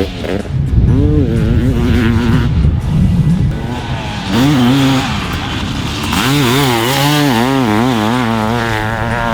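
Honda CR500 two-stroke dirt bike engine revving up and down while being ridden, its pitch rising and falling quickly with the throttle.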